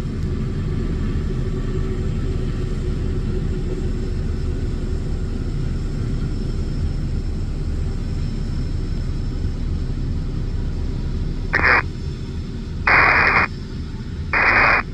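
Steady low rumble of jet airliner engines. Near the end come three short bursts of hiss from an air-traffic-control radio scanner.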